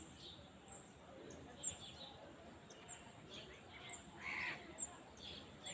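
Small birds chirping in open countryside: a short, high chirp repeats about once a second, with other brief calls around it and one louder call a little after four seconds in.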